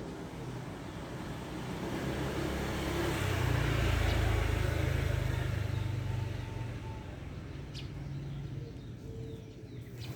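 A motor vehicle driving past: its engine hum grows louder to a peak about four seconds in, then fades away.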